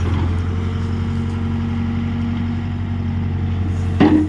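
Mahindra 605 tractor's diesel engine running steadily, with one brief sharp clank about four seconds in.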